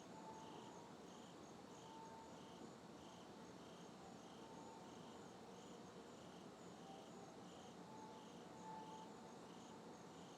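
Crickets chirping at night in a low, even rhythm of about one and a half pulses a second, with fainter higher chirps behind them. A few faint, short, steady tones come and go.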